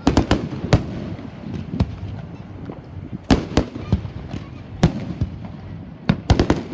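Fireworks exploding: about a dozen sharp bangs at irregular intervals, some in quick clusters of three or four near the start and near the end, over a continuous low rumble.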